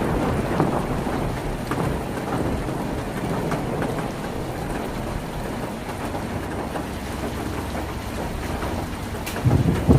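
Heavy rain drumming on a tin roof, a dense steady patter of drops. A thunder rumble dies away at the start, and another low roll of thunder swells near the end.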